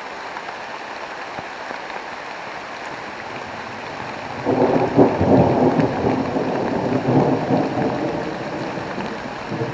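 Heavy rain falling steadily in a thunderstorm. About four and a half seconds in, a long roll of thunder rumbles in and slowly fades away.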